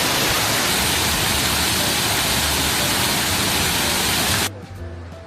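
Loud, steady rushing of a waterfall close by, which cuts off abruptly about four and a half seconds in, leaving soft background music.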